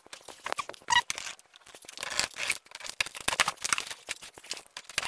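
A large cardboard TV shipping box being handled and cut open along its top edge: irregular scratchy crackling, scraping and tearing, getting denser about two seconds in.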